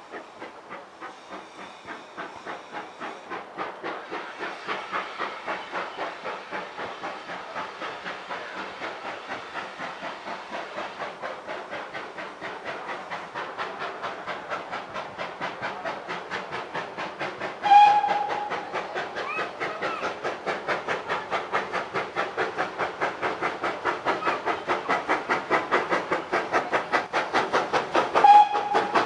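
Steam locomotive working under steam, its exhaust beats coming in a rapid, even chuff and growing louder as it approaches. The whistle gives a short blast about two-thirds of the way in and another near the end.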